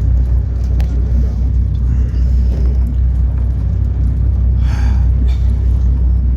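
Steady low rumble inside a moving cable car cabin. A brief high-pitched sound comes about three-quarters of the way through.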